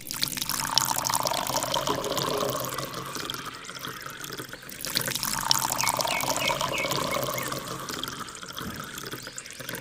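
Steady rush of pouring, splashing water, with a short dip about five seconds in.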